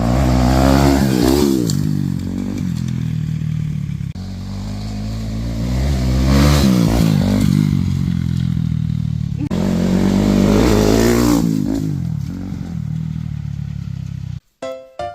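A motor engine running and revving up and down in three waves a few seconds apart, its pitch wavering as it goes.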